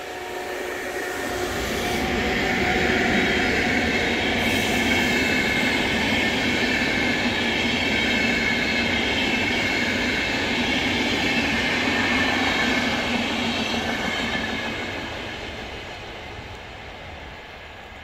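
VR Sr3 electric locomotive hauling a double-deck intercity train past on the main line: a whine and rising rush of wheels on rail as it approaches, a loud steady rumble as the double-deck coaches go by, fading away over the last few seconds as the train recedes.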